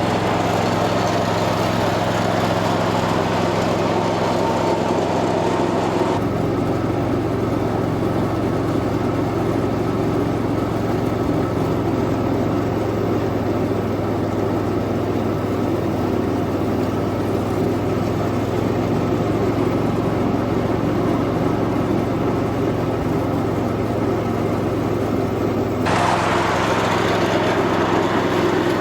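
1978 Cub Cadet 1000 garden tractor's engine running steadily under mowing load. The tone goes duller about six seconds in and brightens again near the end.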